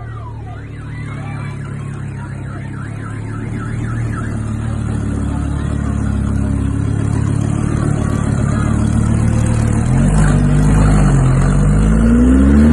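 A car engine running and growing steadily louder, then revving with rising pitch about ten seconds in. A warbling, siren-like alarm tone sounds over it during the first few seconds.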